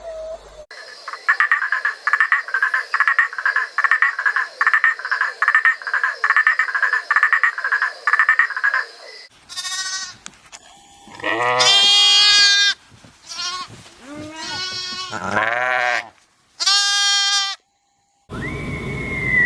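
A rhythmic pulsed animal call, about two pulses a second, for most of the first half, followed by several goat bleats. Near the end a high, steady whistling call begins.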